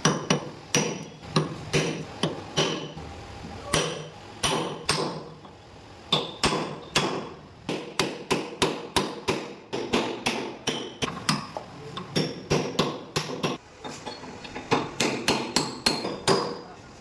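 Hammer blows on steel, knocking a bearing cup out of a Sonalika tractor's trumpet housing: a long run of sharp, ringing metallic strikes, about two to three a second, broken by two short pauses.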